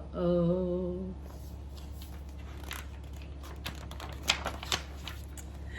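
A picture book's pages being turned and handled: soft paper rustling with a few light clicks, the loudest near the end. It opens with a brief held vocal sound, over a steady low hum.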